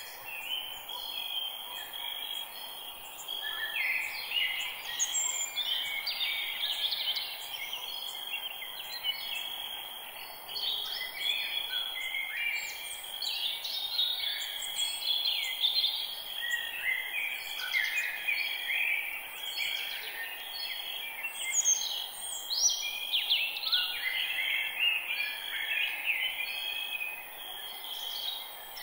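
Many songbirds calling and singing over one another in a dense chorus of short chirps and warbles, over a faint steady hiss of forest background.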